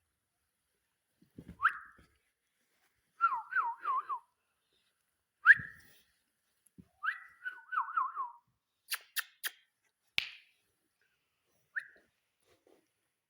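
Ringneck parakeet whistling: short rising whistles and two phrases of quick falling notes, followed by a few sharp clicks.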